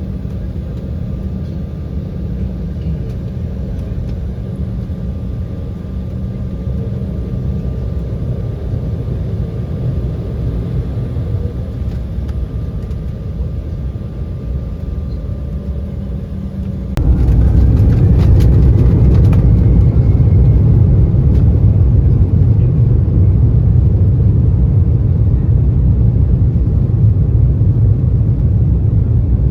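Jet airliner cabin noise: a steady low rumble with a faint steady whine, which steps up abruptly about two-thirds of the way in to a much louder, heavier rumble with a faint rising whine.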